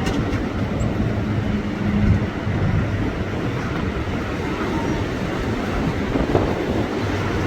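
Strong storm wind blowing in a steady rush, with low rumbling from wind buffeting the microphone.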